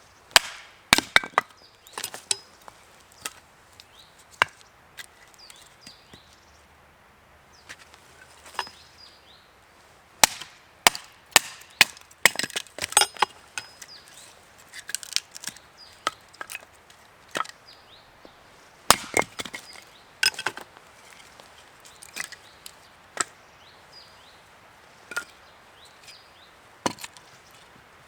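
Firewood being chopped and split: a series of sharp cracks and knocks in irregular clusters, with splintering between some strokes.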